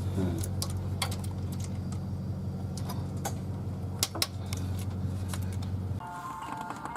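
A steady low machine hum that cuts off suddenly about six seconds in, with scattered sharp metallic clicks and clinks of tools and parts being handled.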